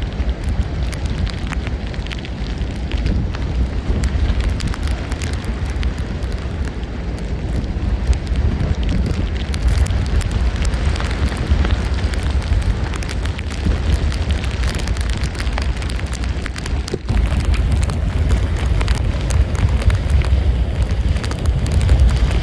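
Tropical-storm wind buffeting the microphone: a loud, steady rumble with crackling, dipping briefly about seventeen seconds in and growing louder toward the end.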